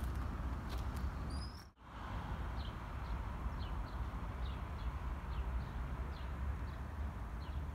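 Small birds chirping, a string of short falling chirps, over a steady low rumble. The sound drops out briefly just under two seconds in.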